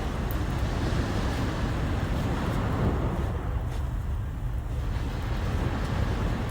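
Sea waves washing ashore, with wind rumbling on the microphone.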